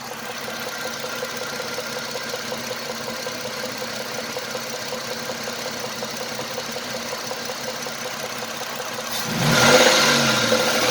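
Chrysler Sebring's 2.7 L V6 running with a knock from a spun connecting-rod bearing, revved up about nine seconds in.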